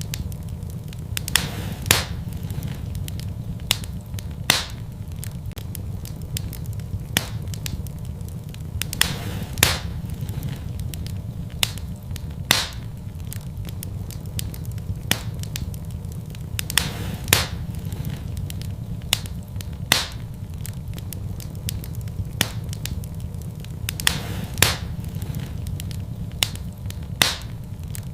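Fireplace wood fire burning: a steady low rumble of flame with sharp, irregular crackles and pops, about one every second or two.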